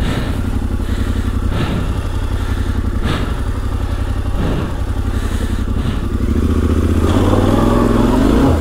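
Yamaha Ténéré 700's parallel-twin engine running at low revs off-road, with a few knocks and clatters from the bike. In the last two seconds or so it revs up as the rider fights for grip after losing momentum on a slippery climb.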